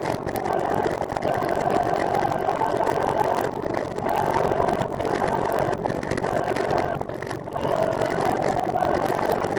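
Steady rushing road and wind noise from riding a recumbent trike on pavement: tyres humming on the surface with air rushing past, dipping briefly a couple of times.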